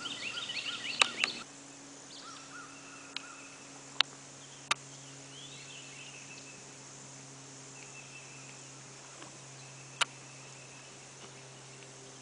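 Birds calling along a wooded riverbank: a quick burst of chattering calls in the first second and a half, then scattered single calls. A few sharp knocks sound through it.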